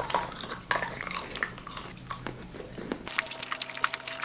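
Close-miked eating of chocolate: biting and chewing, with many small clicks and crackles and some wrapper crinkling.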